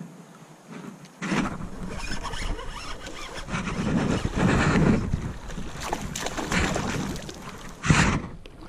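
Rumbling wind and water noise around a kayak, starting abruptly about a second in, with a sharp knock near the end.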